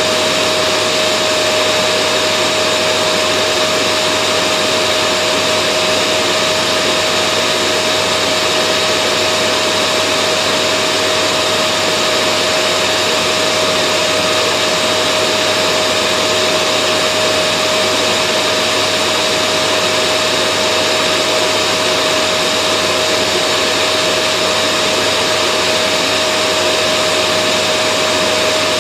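Vacuum cleaner running continuously at constant speed: a steady rush of air with a fixed motor whine, unchanging throughout.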